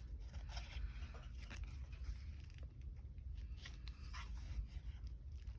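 Faint rustling and crinkling of paper as the pages of a handmade altered book journal are handled and turned, with a few soft scattered crackles over a low steady hum.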